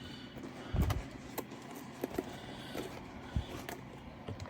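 A rolled diamond-painting canvas being unrolled and handled: light rustling and small taps, with a dull thump about a second in and a smaller one later.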